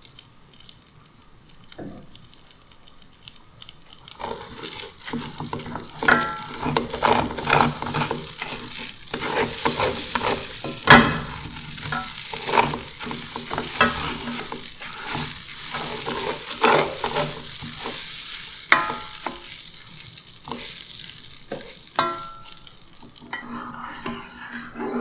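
Food sizzling in hot oil in a pan while a utensil stirs it, with repeated knocks and clinks against the pan. The sizzle cuts off suddenly shortly before the end.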